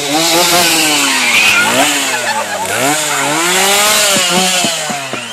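Two-stroke chainsaw revving up and down repeatedly, its pitch rising and falling about once a second.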